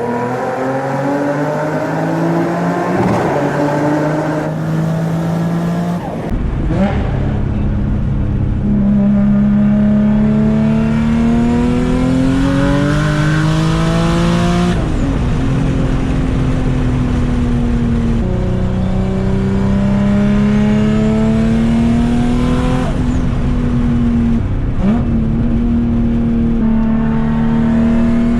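Turbocharged 2004 Infiniti G35 Coupe's V6 under full throttle, climbing in revs through the gears. The pitch drops sharply at each upshift, about three times, then climbs again.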